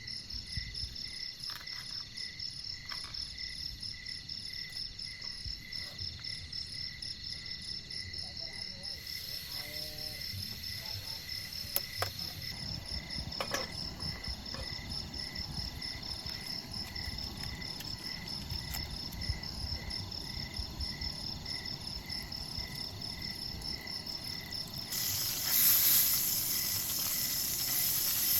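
Insects chirping in a steady, evenly pulsing rhythm of high notes. A loud hiss starts near the end.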